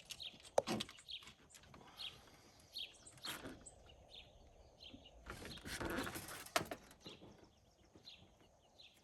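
Small birds chirping repeatedly in the background while parts are handled in a truck's engine bay. Scattered light clicks and knocks, and a longer rustling scrape about five seconds in.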